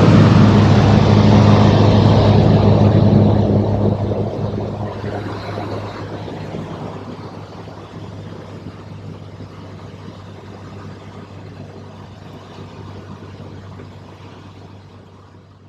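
A light aircraft's propeller engine running with a steady low drone, loud for the first few seconds and then fading away steadily.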